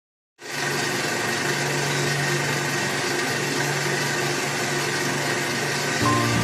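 Tractor engine running steadily under a strong, even rushing noise. The sound cuts in abruptly about half a second in, and the engine note shifts near the end.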